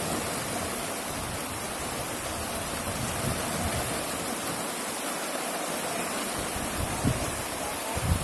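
Strong wind blowing as a steady rushing hiss, with a few brief low buffets of wind on the microphone near the end.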